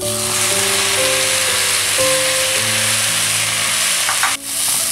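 Onion-coconut masala sizzling loudly in a hot pan as chopped tomatoes go in. The sizzle starts abruptly and breaks off for a moment about four seconds in.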